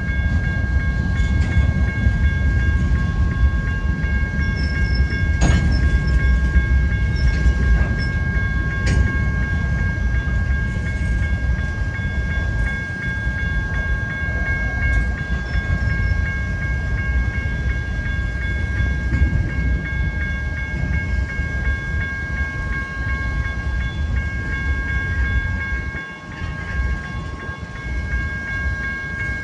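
BNSF manifest freight cars rolling past on the rails: a steady heavy rumble with a few sharp clicks of wheels over rail joints and a steady high-pitched whine. It drops off somewhat near the end as the last cars go by.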